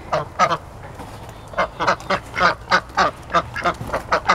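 Domestic ducks (Welsh Harlequin, Khaki Campbell and Blue Swedish) quacking: two quacks at the start, then a rapid run of quacks, about four a second, from about a second and a half in.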